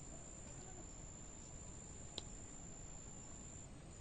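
Faint, steady high-pitched trill of a cricket, held as one unbroken tone, with one sharp click about two seconds in over a low background rumble.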